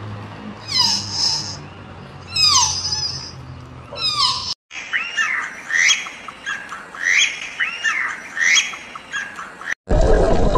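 Animal calls: three loud squawks that sweep down in pitch, about one every second and a half, then after a break a run of shorter, higher chirping calls.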